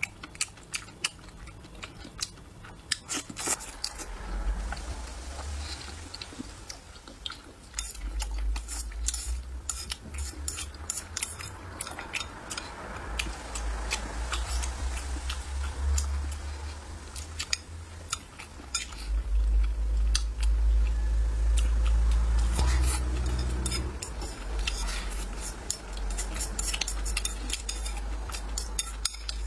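Close-miked chewing and biting of braised pork intestines with rice, with repeated sharp clicks and scrapes of chopsticks against the bowl. A low rumble of chewing close to the microphone grows loudest a little past the middle.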